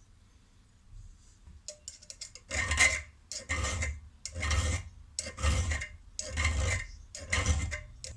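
Hand abrading of an old metal spanner: six scraping strokes about a second apart, starting about two and a half seconds in, after a few light clicks.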